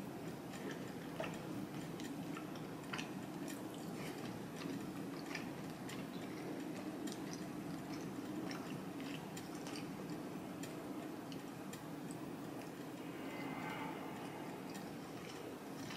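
A person chewing a mouthful of grilled beef steak, with irregular small wet mouth clicks, over a steady low hum. A short hummed sound comes near the end.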